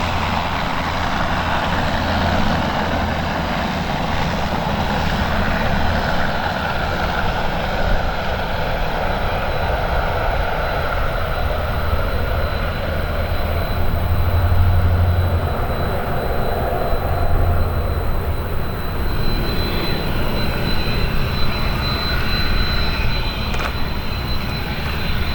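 Embraer 120 Brasilia's twin turboprop engines running, a steady drone with a low propeller throb that swells and fades. A high whine grows stronger in the second half.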